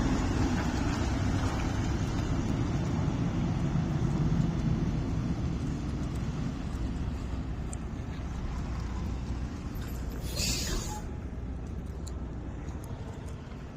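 Diesel semi truck engine running with a steady low rumble that slowly fades, and a short air-brake hiss about ten seconds in.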